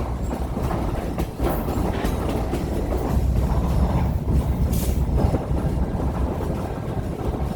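Heritage passenger train running along the track, heard from aboard: a steady low rumble with the irregular clatter of the wheels over the rails.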